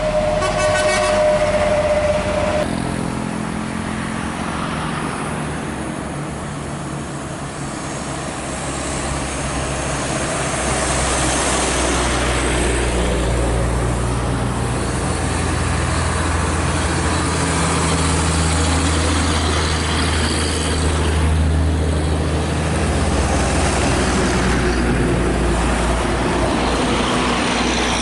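A horn sounds with a steady held tone that cuts off a couple of seconds in, then heavy road traffic noise. A big diesel engine of a bus or truck drones low, grows louder from about ten seconds in and fades back somewhat after about twenty-two seconds.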